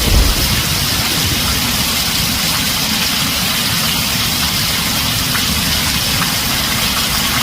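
Heavy rain falling on a tin roof: a steady, dense hiss with a rough low rumble underneath. The tail of a thunder roll dies away in the first moment.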